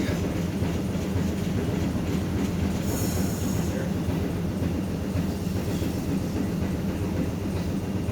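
St. Charles line streetcar running along its track, heard from aboard: a steady low rumble, with a brief high-pitched wheel squeal about three seconds in.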